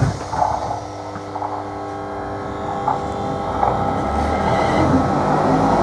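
Class 321 electric multiple unit's traction motors running under power, a loud whine and rumble that grows louder over the few seconds, with a sharp knock at the very start.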